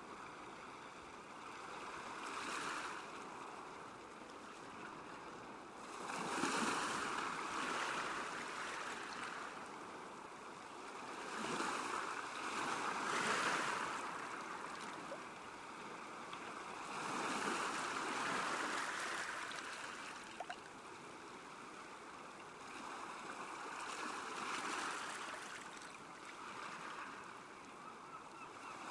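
Small waves lapping on a lakeshore: a soft wash of water that swells and eases every five or six seconds.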